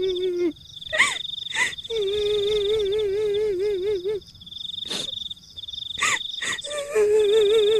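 Spooky sound-effect mix: a high, trembling wail like a kuntilanak ghost crying, in three stretches, over a steady insect trill, broken by about five short sharp dog barks.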